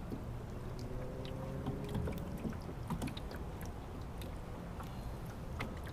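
Water sloshing against the hull of a small boat, with scattered light clicks and knocks on board and a faint hum in the first couple of seconds.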